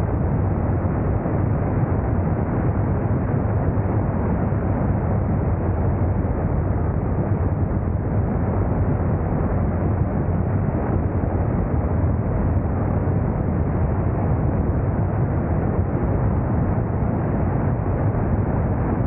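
Steady low rumble of a motorcycle on the move: engine and wind noise on the camera's microphone, unchanging throughout.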